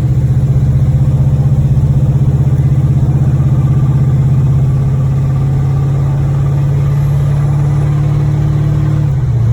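The Monte Carlo SS's 355 small-block V8 runs under way at a steady speed, a strong low drone with a fast even pulse that eases slightly lower near the end. The engine has a knocking connecting rod in its bottom end.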